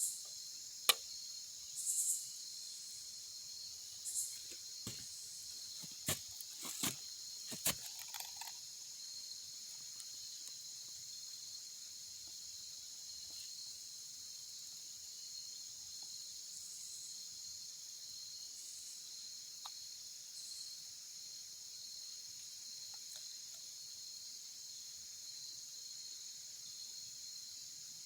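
Steady, high-pitched chorus of crickets. A handful of sharp clicks and taps sound over it in the first eight seconds.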